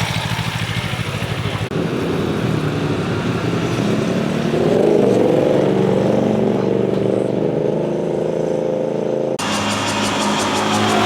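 Motorcycle engine accelerating, its pitch climbing and then holding high. The sound changes abruptly twice, to other engine noise.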